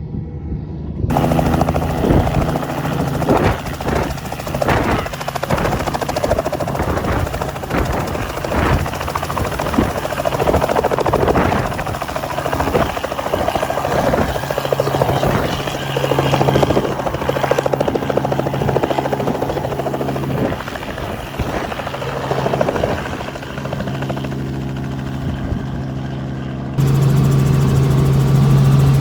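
Helicopter engine and rotor noise, a steady loud drone with a low hum, stepping up in level about a second in and again near the end.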